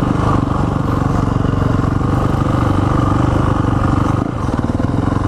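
Dirt bike engine running steadily at low revs, with even, rapid firing pulses; it eases off briefly about four seconds in.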